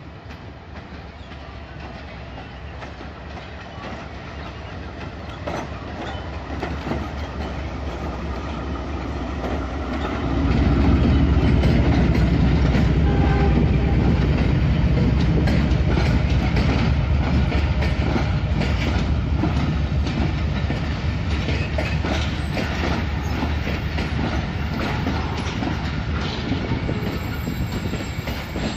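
Diesel-electric locomotive hauling a passenger train approaches, growing steadily louder, and passes close by about ten seconds in with a sudden heavy engine rumble. Its passenger coaches then roll past with the clickety-clack of wheels over rail joints, slowly fading.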